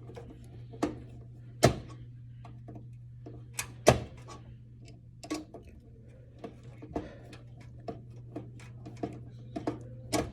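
Irregular clicks and knocks of a screwdriver, screws and metal computer-case parts being handled during disassembly of a desktop PC, with two sharper knocks about 2 and 4 seconds in. A steady low hum runs underneath.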